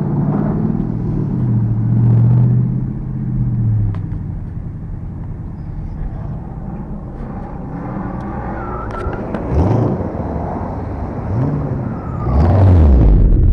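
Car engine running steadily at low revs, then revved in short rising-and-falling blips about ten seconds in, again a little later, and loudest near the end.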